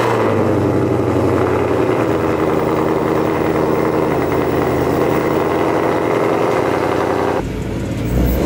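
Supercharged 5.2-litre V8 of a modified Ford Mustang Shelby GT500 idling steadily just after a start-up. About seven seconds in, the sound turns deeper and a little quieter.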